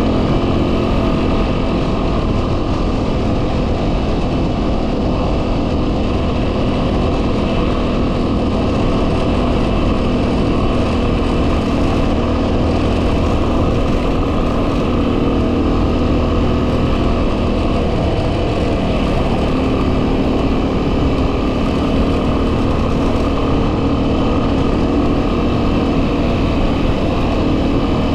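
A 2010 Yamaha WR250R's 250 cc single-cylinder four-stroke engine running at a steady cruising speed, with heavy wind buffeting on the microphone. The engine's pitch dips briefly and climbs again about two-thirds of the way through.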